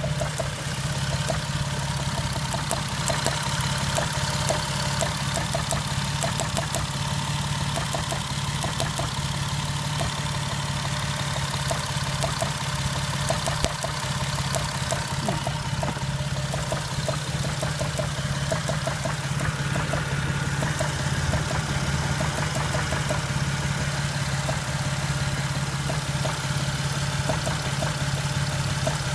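Jeep engine idling roughly with a regular knock, about two or three knocks a second.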